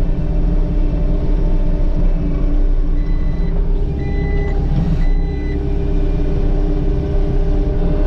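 Diesel engine of a farm machine running steadily, with its backup alarm giving three short, high beeps about a second apart near the middle as it reverses.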